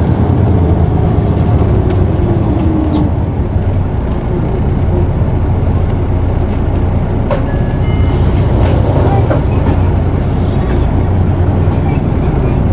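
Cabin sound of an Isuzu Erga PKG-KV234L2 city bus, its diesel engine running with a steady low drone. A whine falls in pitch over the first three seconds, and a few short knocks and rattles come through.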